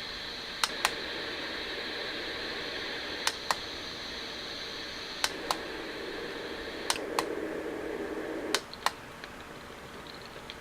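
A white noise machine's speaker playing its sounds, with five pairs of sharp button clicks about every two seconds as its sound-select button is pressed, the sound changing after each press. After the last press, near the end, it switches to a faint, fast ticking sound.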